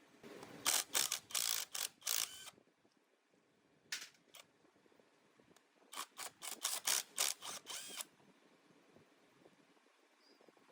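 Metal tools and parts handled during disassembly: three irregular runs of sharp metallic clicks and clinks, some ringing briefly. The first comes just after the start, a short one around four seconds in, and a longer run between six and eight seconds.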